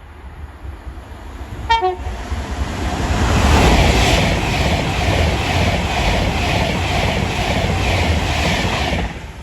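A train gives a short horn toot about two seconds in, then passes at speed with its wheels clicking rhythmically over the rail joints. The sound of the passing train stops abruptly near the end.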